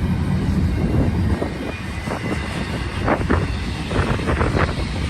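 Diesel freight locomotives running past, a steady low engine rumble that eases a little after about a second and a half.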